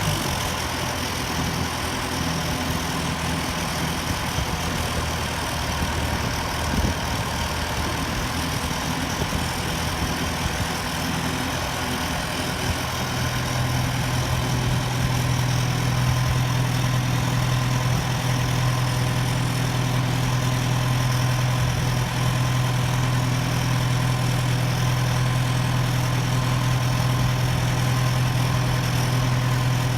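Truck engine idling steadily, its low hum growing stronger about a third of the way through.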